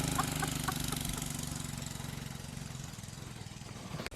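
Minibike's small engine running steadily and fading away as the bike rides off.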